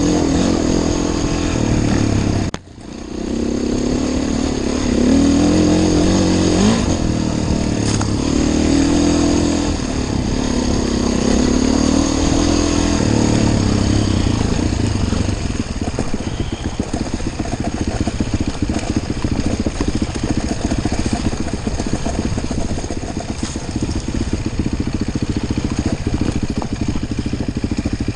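Enduro motorcycle engine being ridden, revving up and down through the first half, with a sudden brief drop in sound about two and a half seconds in. It then runs more steadily.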